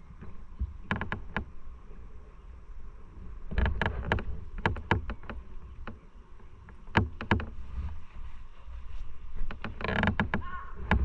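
A steady low rumble of riding noise, with a series of sharp clicks and knocks about a second in, around the middle, and again near the end.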